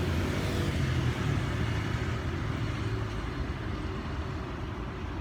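Steady low rumble of motor vehicle noise, engine and road sound, easing off slightly toward the end.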